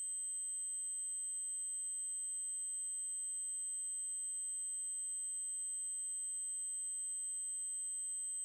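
Synthesized 8192 Hz triangle-wave test tone: a single steady, high-pitched tone held without change.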